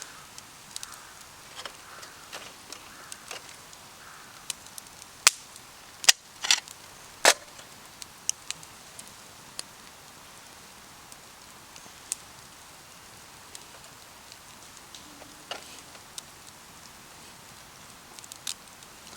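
Wood campfire crackling: irregular sharp pops and snaps over a faint steady background. A burst of several loud cracks comes about five to seven seconds in.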